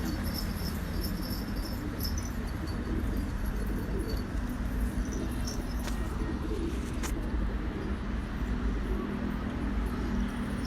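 Domestic pigeons cooing over steady background noise, with two faint sharp clicks around the middle.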